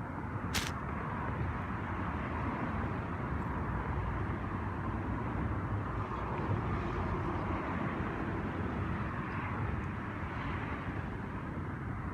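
Steady low rumbling outdoor noise, with a single sharp click about half a second in.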